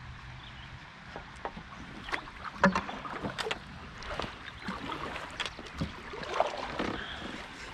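Irregular knocks and splashy water sounds around a fishing kayak, as gear is handled and water moves against the hull.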